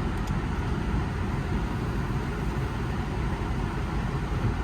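Land Rover LR3 engine idling, a steady low rumble, with a faint click near the start.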